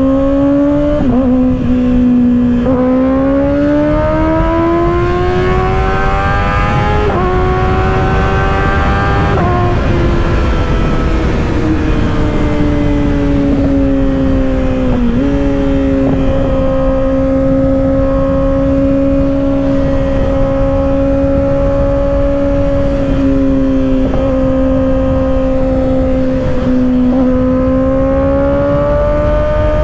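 2024 Kawasaki ZX-6R's inline-four engine through an M4 aftermarket exhaust, climbing in pitch under throttle with short dips where it shifts up. It then eases off and holds a steady drone at freeway cruising speed, rising again near the end, over constant wind rush.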